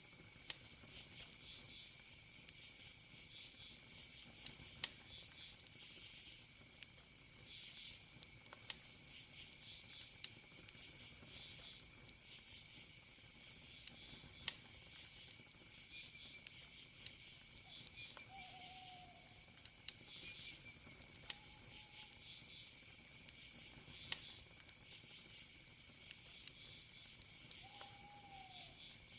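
Campfire wood crackling faintly, with a sharp pop every few seconds, over a steady trilling chorus of crickets.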